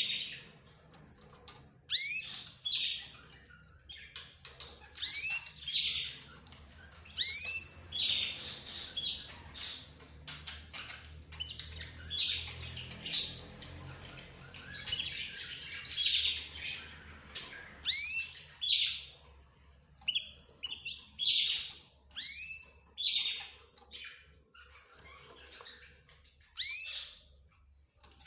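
Mixed pet birds (budgerigars, lovebirds, zebra finches and a canary) calling and chirping: short, sharp, arching calls repeat every second or two, with a stretch of dense, overlapping chatter in the middle.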